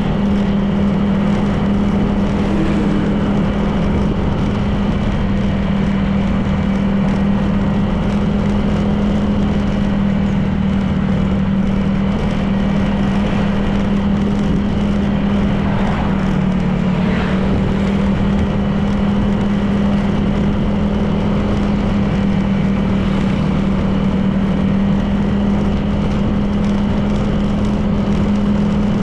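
Honda PCX 160 scooter's single-cylinder engine running at a steady speed, a constant hum over wind and road noise. The engine note dips briefly about halfway through, then steadies again.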